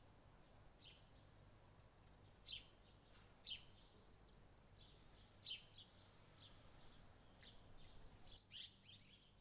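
Faint, scattered bird chirps, short single calls every second or so with a small cluster near the end, over quiet outdoor background noise.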